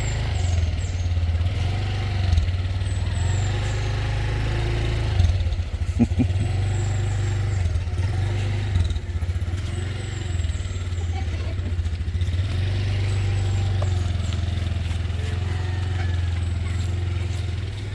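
Small motorbike engine running, its pitch rising and falling as the throttle is worked.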